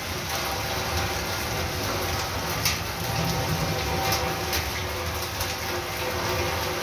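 Heavy rain falling steadily, pattering on a sheet-metal roof overhead and on the wet street. The pattering is an even hiss with a low rumble beneath, and a few sharper drop hits stand out in the middle.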